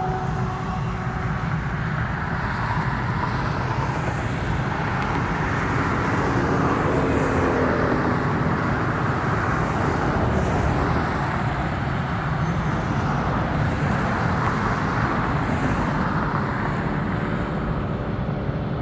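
F-5 jet's twin General Electric J85 turbojets running, a steady roar with faint whining tones.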